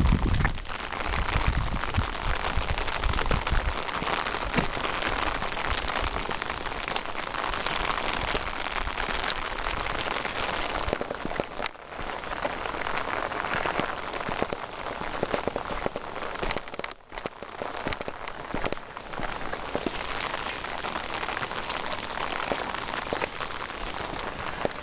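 Steady rain falling, a dense hiss full of small drop ticks, dipping briefly twice.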